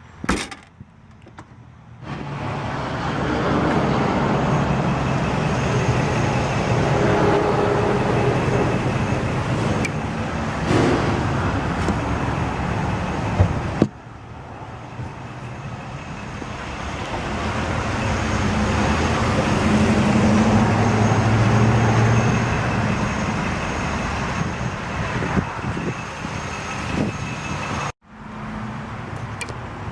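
Road traffic noise: the rush of passing vehicles, swelling and fading, broken off abruptly twice.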